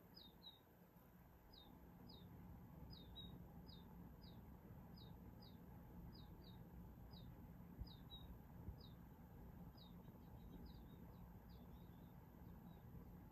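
Small songbirds cheeping at a feeder: a faint, irregular run of short, falling chirps, about two a second, thinning out near the end.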